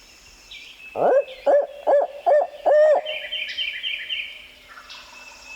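Owl hooting in the barred owl's pattern: five loud arched hoots in about two seconds, the first sliding up from low. A fainter, higher rattling call follows at once.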